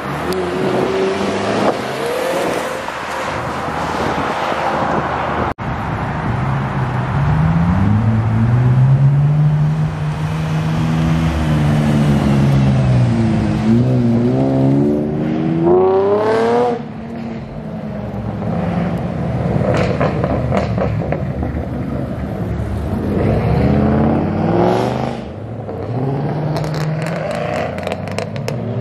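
Several cars' engines revving and accelerating away one after another, including a Chevrolet Camaro convertible and a V8 Ford Mustang GT. The engine notes climb in pitch and drop back at each shift, with the hardest pull rising steeply about halfway through and then cutting off sharply.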